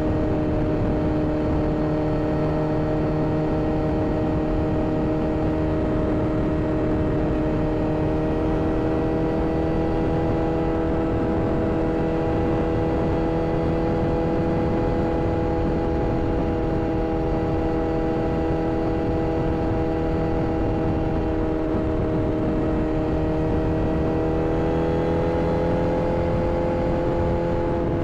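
Sport motorcycle's inline-four engine running steadily at high revs. Its pitch edges up slowly and climbs a little near the end, over a steady rush of noise.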